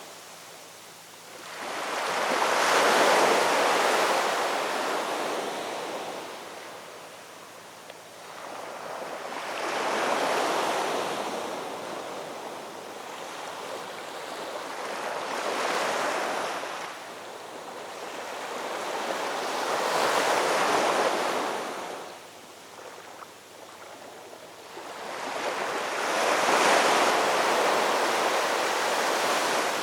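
Ocean waves breaking and washing in, five surges about five to six seconds apart, each rising and falling away.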